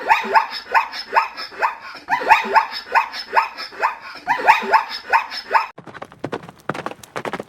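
A dog barking in three quick runs of short barks, each bark falling in pitch, about two a second. About six seconds in the barking stops and hooves start clip-clopping in an even beat.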